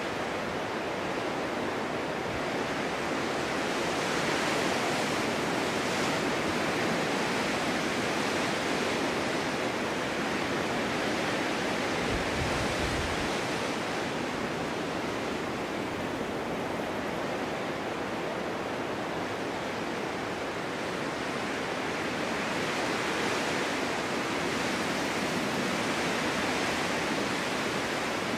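Winter storm wind blowing snow: a steady rushing hiss that swells and eases gently, with a brief low rumble about twelve seconds in.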